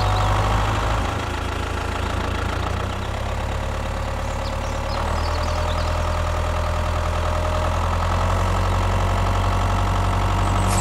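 An engine idling steadily, a low, even hum with a mid-pitched drone above it.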